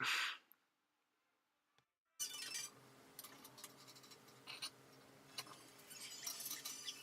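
Faint light clinks and clicks of the metal flower stand's parts being handled and fitted, over a steady low hum. They start suddenly about two seconds in, after a stretch of dead silence.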